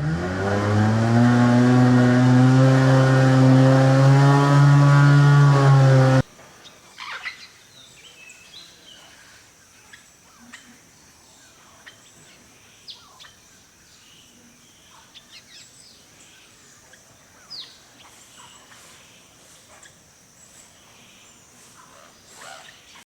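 A motor vehicle's engine revving up, rising in pitch and then holding steady, loud, until it cuts off abruptly about six seconds in. After that come scattered bird chirps over a faint, steady high-pitched hum.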